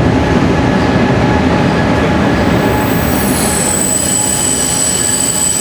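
Electric locomotive hauling passenger coaches rolling into the platform under a station roof, with a steady rumble. About three seconds in, a shrill high-pitched squeal of several tones starts as the train brakes to a stop.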